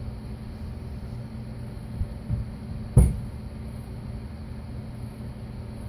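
A steady low hum, with a few knocks and thumps from handling the freshly bent bar stock. Two light thumps come about two seconds in, and a single sharp clank, the loudest sound, about three seconds in.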